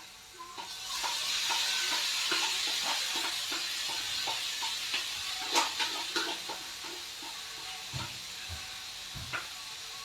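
Food sizzling in a hot frying pan. The sizzle starts suddenly about half a second in and then slowly eases, with scattered clinks of a utensil against the pan and a sharp clink midway.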